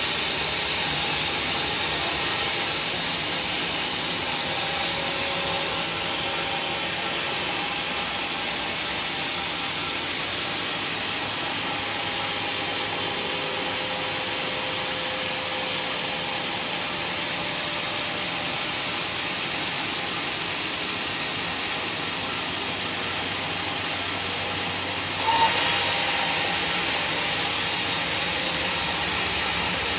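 A woodworking power machine running steadily with an even, noisy whir. Near the end there is a brief louder bump and the sound turns a little brighter.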